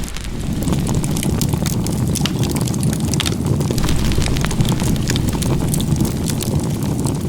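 Wood fire burning, with frequent crackles and pops over a steady low rumble.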